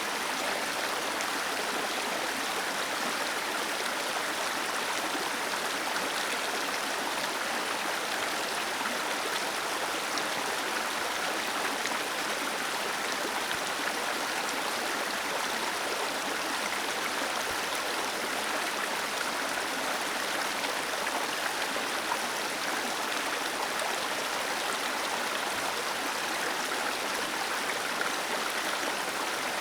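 Small waterfall splashing and rushing steadily, as an even hiss with little low rumble.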